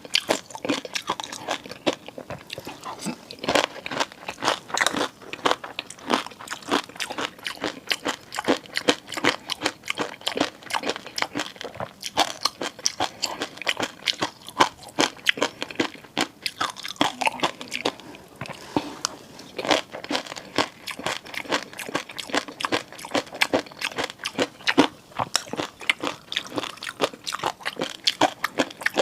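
Close-miked eating sounds: a rapid, continuous run of sharp wet clicks and crunches from chewing and biting.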